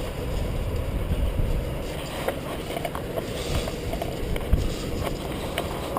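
Rainstorm ambience: a steady low rumbling noise with scattered faint ticks.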